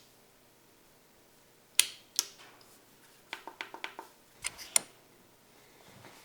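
Sharp mechanical clicks of a camera shutter in a small quiet room: two loud clicks about two seconds in, a quick run of softer clicks and taps just after the middle, and two more sharp clicks shortly after.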